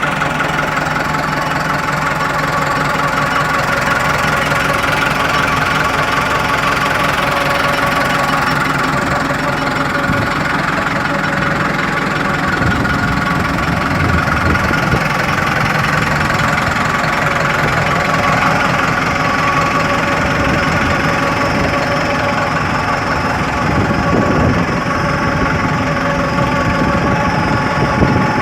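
New Holland TS100 tractor's diesel engine running steadily.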